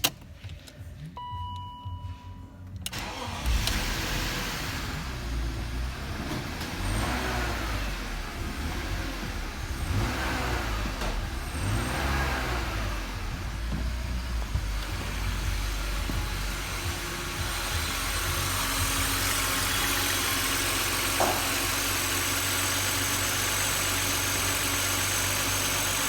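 BMW E39's M52TU 2.5-litre straight-six petrol engine starting about three seconds in after a short beep, revved a few times, then settling into a steady idle.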